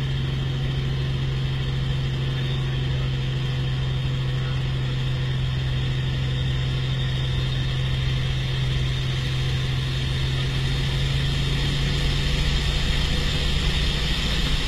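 Helicopter engine running steadily on the ground, a constant low hum with a high whine over it, growing louder over the last few seconds.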